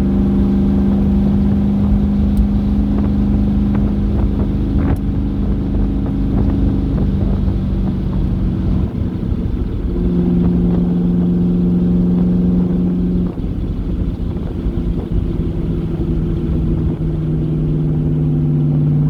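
C3 Corvette's V8 engine running under way, heard from the open-top car with wind noise. Its hum holds steady, then steps down in pitch a few times.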